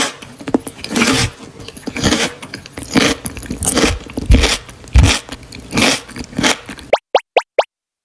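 Close-up eating sounds: crunchy food being bitten and chewed, a noisy crunch every half second or so. Near the end come four quick rising sweeps.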